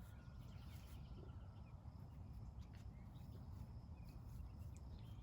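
Quiet outdoor ambience: a low steady rumble, like light wind on the microphone, with a few faint bird chirps.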